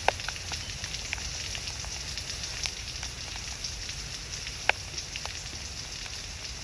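Steady hiss with scattered sharp crackles and pops, two of them louder, one just after the start and one near the end.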